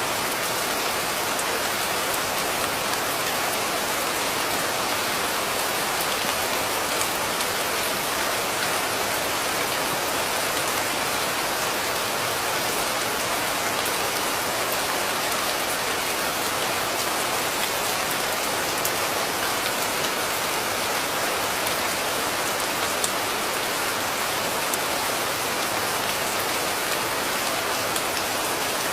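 Rain falling steadily, an even hiss with scattered sharp drop ticks, unchanging in loudness throughout.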